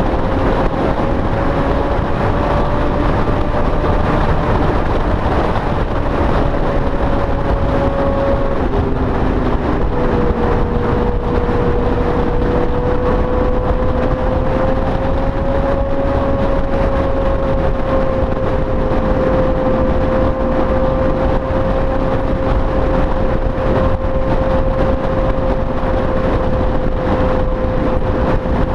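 Honda Gold Wing motorcycle running steadily at road speed, its engine hum mixed with heavy wind and road noise. The engine note drops a little about nine seconds in, then holds steady.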